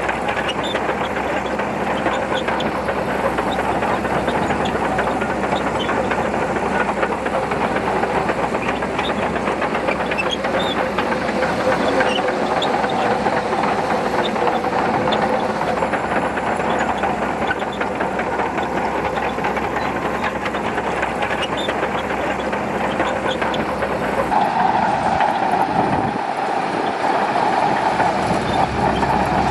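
Shantui DH17C2 crawler bulldozer working as it pushes sand, its engine and running gear making a steady machine noise. About 24 seconds in, the tone shifts: the deepest part drops away and a higher, brighter band comes up.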